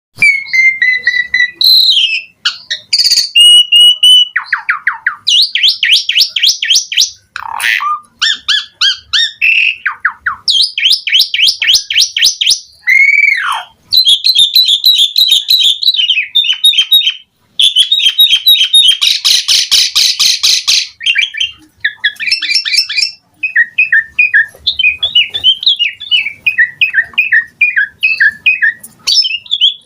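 Pied starling (jalak suren) singing vigorously: a long, varied stream of clear whistles, fast repeated trills, sweeping glides and harsher chattering notes, packed with mixed fill-in phrases.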